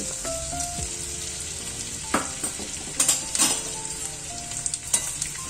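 Pieces of gond (edible gum) sizzling steadily as they fry and puff up in hot ghee, with a few sharp pops about two, three and five seconds in.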